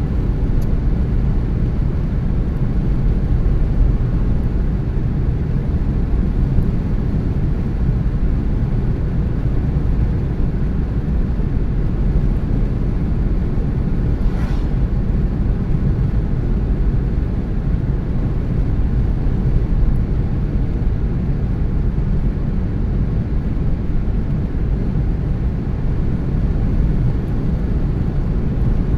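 A car being driven at a steady speed: a continuous low rumble of road and engine noise.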